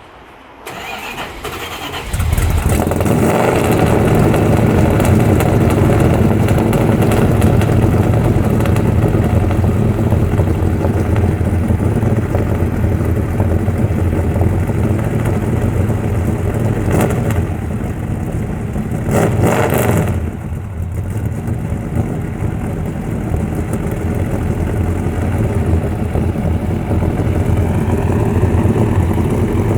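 1969 Chrysler Newport's 440 big-block V8 cold-starting: it cranks briefly, catches about two seconds in, and settles into a loud, steady idle through a 2½-inch H-pipe dual exhaust with Dynomax Race Bullet glasspack-style mufflers. About two-thirds of the way through, the sound swells briefly before settling back to idle.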